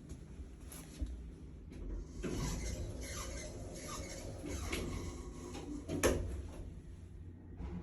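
Household objects being handled: rustling and light clattering, with a short knock about a second in and a sharper, louder knock about six seconds in.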